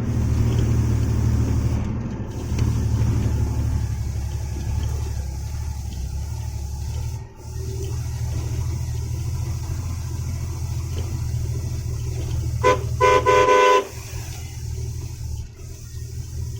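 Truck engine running with a steady low drone while on the move. About three-quarters of the way in, a vehicle horn gives a short toot and then a longer blast of just under a second.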